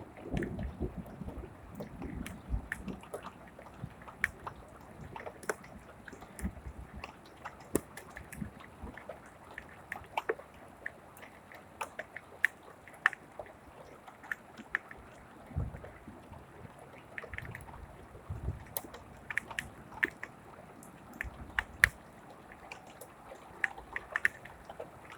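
Rain falling, with irregular sharp drops and drips ticking close by over a faint steady wash of water, and a few low rumbles.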